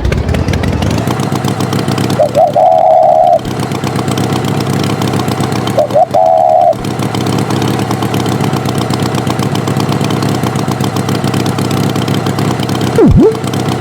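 Tractor engine sound effect running steadily. A louder, higher tone about a second long cuts in twice, and a quick dipping-and-rising glide sounds near the end.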